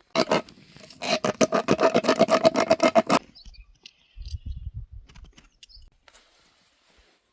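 Sheep bleating: a short bleat, then a long, quavering bleat of about two seconds that pulses rapidly on one steady pitch. A quieter low rumble follows.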